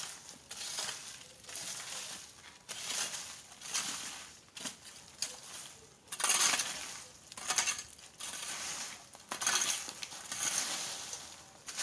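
Dry rubbish and debris being dragged and scraped across the ground while clearing a patch of yard, in rough, hissy strokes about one a second.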